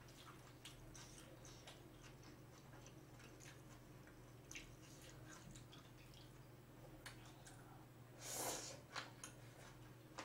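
Faint chewing of spicy steamed bean sprouts and seafood: soft, scattered crunches and mouth clicks, with one brief louder mouth noise about eight seconds in.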